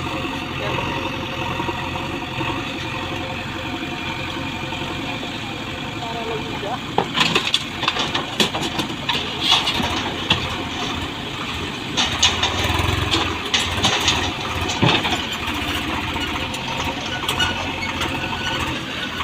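Diesel engine running steadily, with a run of sharp knocks and clatter from about seven seconds in.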